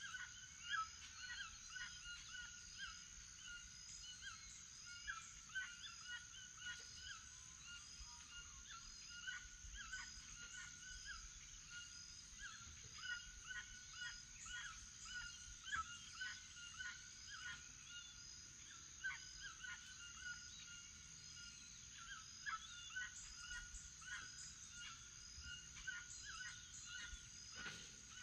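A morning chorus of many birds calling: short calls repeated over and over, with higher chirps among them. Under them runs a steady high-pitched hum.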